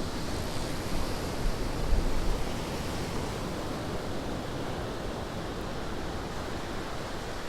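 Steady wash of ocean surf breaking on the beach, with a louder low surge about two seconds in.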